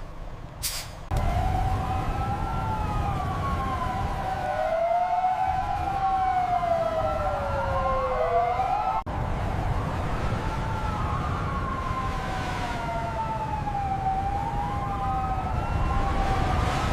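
Emergency vehicle siren wailing, its pitch rising and falling slowly, at times two sirens overlapping, over a steady low rumble. It breaks off for an instant about nine seconds in.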